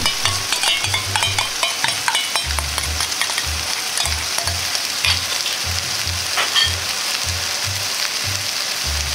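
Chicken, nuts and vegetables sizzling in a hot frying pan as a ketchup-and-water sauce is poured in, a steady hiss with small clicks and pops mostly in the first few seconds.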